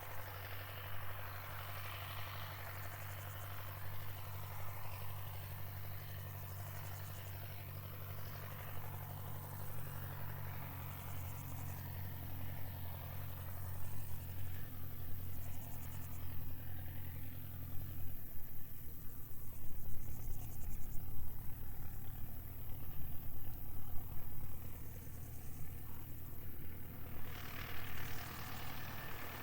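Open-field ambience: a distant engine drones steadily at a low pitch until about two-thirds of the way through. Uneven low wind rumble on the microphone follows, and crickets and other insects chirr in the background, growing stronger again near the end.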